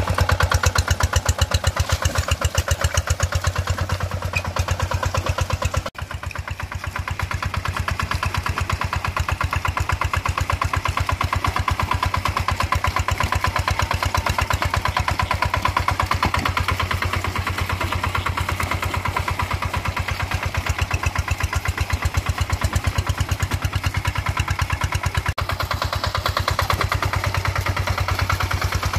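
Single-cylinder diesel engine of a two-wheel paddy-field hand tractor running steadily with an even, rapid chugging beat, briefly dipping about six seconds in.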